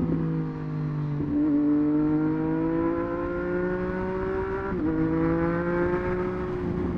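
Triumph Street Triple 765 RS inline three-cylinder engine through a Racefit Growler full exhaust, pulling under acceleration with its pitch climbing steadily. Its note drops sharply at upshifts about a second in and again near five seconds in.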